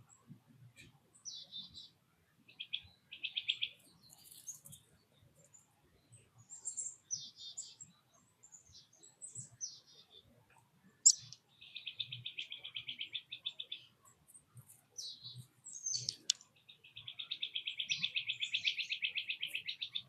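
Small songbirds calling and singing, with scattered short high chirps and two long, fast trills, the louder one near the end.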